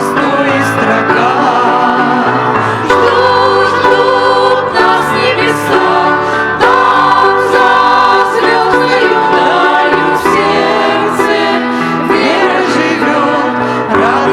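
Several voices singing a Christian song in Russian together, with instrumental accompaniment.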